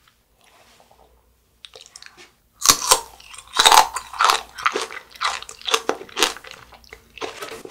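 Crunchy chewing of a piece of aloe tanghulu, its hard sugar coating cracking between the teeth in a run of loud crunches that starts about two and a half seconds in.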